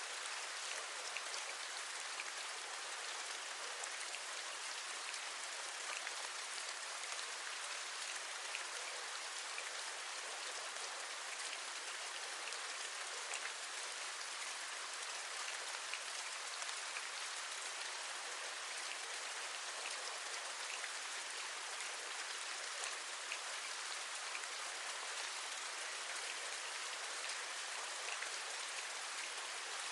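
Steady rain: an even hiss with many small drop taps scattered through it.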